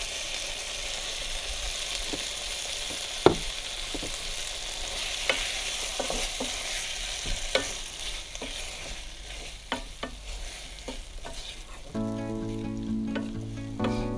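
Food sizzling and frying in a saucepan while a wooden spoon stirs it, with scattered knocks of the spoon against the pan, the loudest about three seconds in. Background music comes in near the end.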